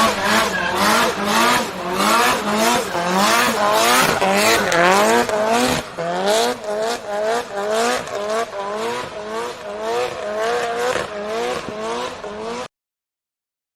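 Nissan S15 Silvia doing a burnout: the engine is revved hard over and over, its pitch rising in repeated sweeps about twice a second, over the hiss and squeal of spinning tyres. The sound cuts off suddenly near the end.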